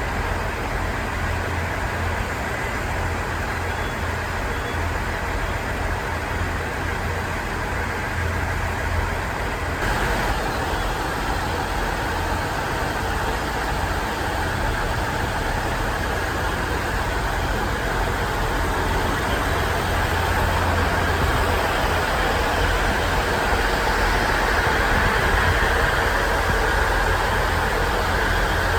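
KiHa 110 series diesel railcar engines idling steadily in a deep, even rumble, growing a little louder in the second half.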